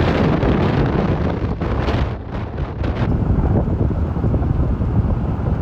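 Loud, uneven wind buffeting on the microphone: a deep rush of noise with no clear tone.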